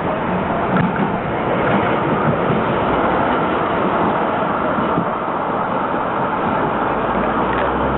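Tram running on its rails: steady rolling noise with a few short clicks.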